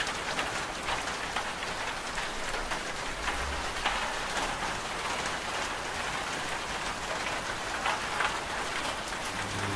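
Steady rain falling: an even hiss with scattered sharper drop ticks. Near the end a washing machine's steady motor hum comes back in under the rain.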